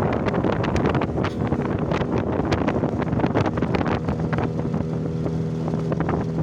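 Boat ride on a river: wind buffeting the microphone and water splashing against the boat, with a steady motor hum coming in about four seconds in.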